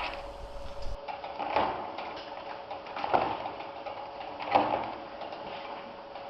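Three short rattling knocks about a second and a half apart, over a steady hum.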